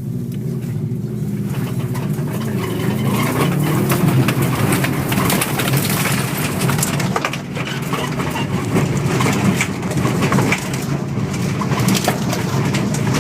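Car engine running, its pitch rising and falling in the first few seconds, with many short clicks and crackles throughout.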